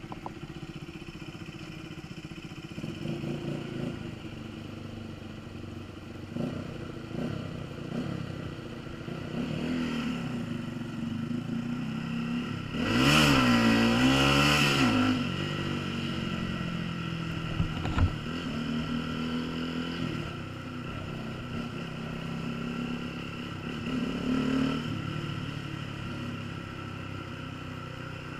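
Honda CBF125's single-cylinder engine running under way, its pitch rising and falling with the throttle and gear changes, with wind on the microphone. Around the middle the sound gets louder for about two seconds with a wavering pitch, and a sharp knock comes a few seconds later.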